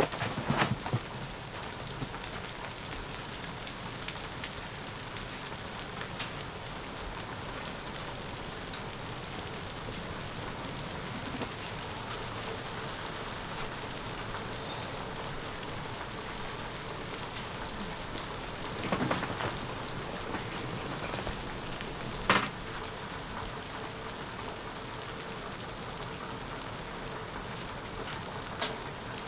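Steady hiss of precipitation striking tent fabric, with a few sharper ticks and knocks, the loudest about 22 seconds in.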